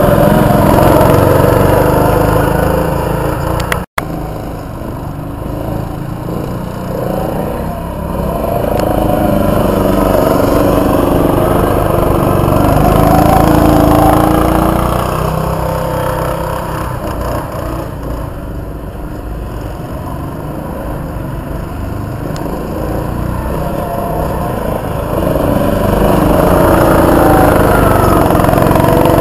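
Mini sprint car engines racing, revs rising and falling as the cars go round the track and loudness swelling as they pass. The sound cuts out for an instant about four seconds in.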